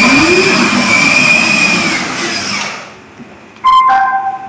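Electric motors and gearbox of a 12V ride-on toy police car whirring, with a whine that rises and falls, winding down about three seconds in. Near the end comes a short two-note electronic beep, stepping down in pitch.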